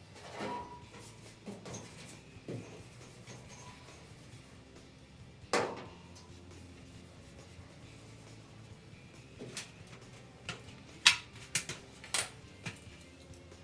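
Scattered light knocks and clicks of tools and sheet metal being handled, a dozen or so short sharp strikes, the loudest ones clustered near the end.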